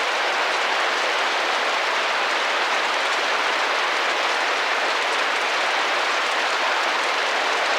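Steady rain pattering against a window pane, a dense even hiss with no single drops standing out.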